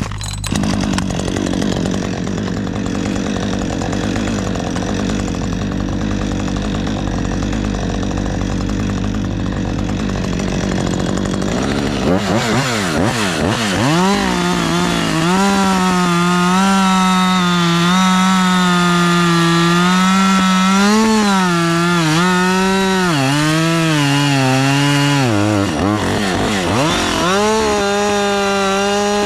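An engine running hard. About twelve seconds in, a strong droning note takes over, its pitch rising and falling repeatedly as the load and revs change.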